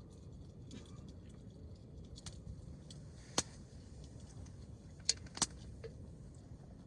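Hardwood campfire crackling: a few sharp pops from the burning wood, one about halfway through and two close together later, over a low steady rumble.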